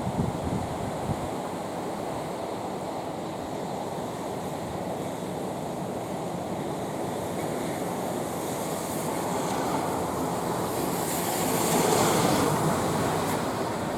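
Rough, typhoon-driven surf, a steady wash of waves with one bigger wave building and breaking about eleven to thirteen seconds in.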